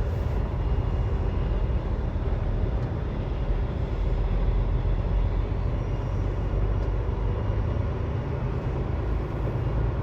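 Semi truck's diesel engine running at low speed, a steady low rumble.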